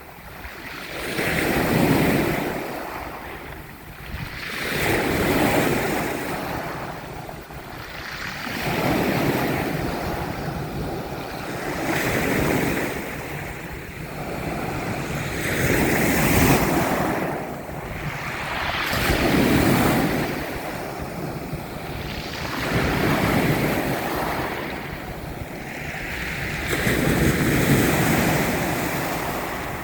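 Ocean waves surging and washing in, the rushing sound swelling and fading every two to four seconds.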